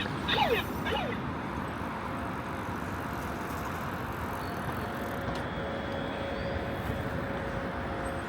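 Steady street traffic noise, with a few quick falling chirps in the first second and a faint steady whine from about the middle on.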